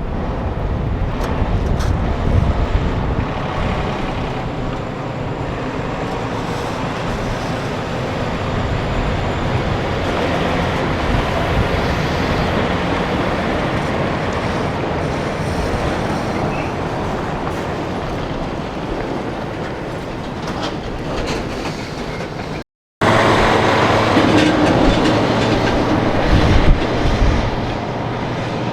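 Heavy vehicles going by, a steady rushing rumble with some rattling. It breaks off abruptly about two-thirds of the way through and comes back louder.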